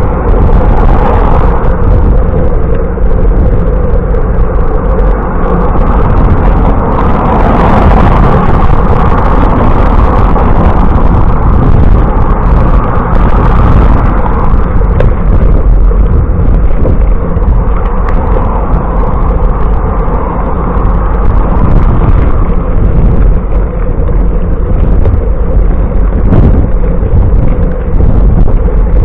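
Loud, steady wind buffeting on the microphone of a camera riding along on a moving bicycle, a deep rumble with rushing noise over it.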